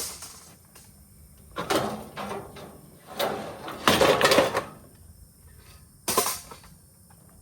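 Scrap metal pieces clanking and clattering as they are handled and dropped: a knock at the start, a clatter about two seconds in, a longer, louder clatter around four seconds in, and a sharp clank about six seconds in.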